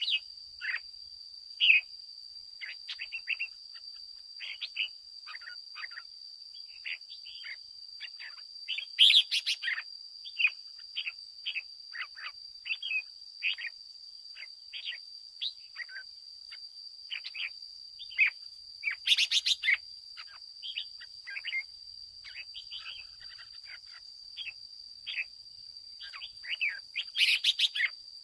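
Red-whiskered bulbul (chào mào) singing and calling: a rapid, continuous run of short chirpy notes, broken three times by a denser, noisier burst of chatter, over a steady high-pitched tone.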